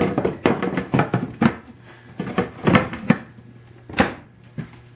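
Wooden machinist tool chest being handled: a run of irregular wooden clicks and knocks, with a sharper knock about four seconds in.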